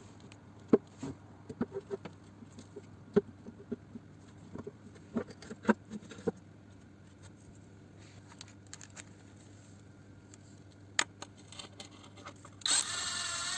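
Scattered light metallic clicks and knocks as the sump pan and its bolts are handled and set in place, then a short whirring burst about a second long near the end, like a small power driver spinning a bolt in.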